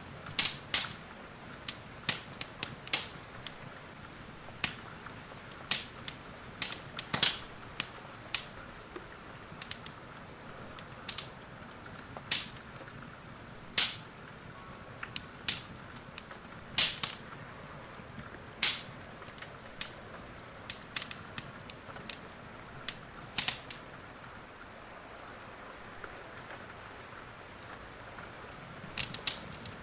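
Wood fire crackling with irregular sharp pops, over a steady hiss of rain.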